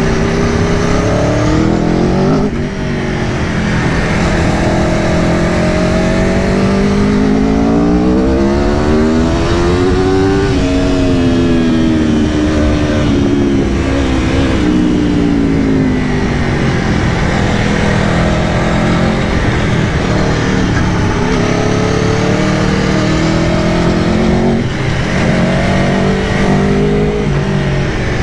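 2022 Aprilia Tuono V4 Factory's V4 engine pulling on the road: the revs climb for several seconds, ease off, then pick up again near the end.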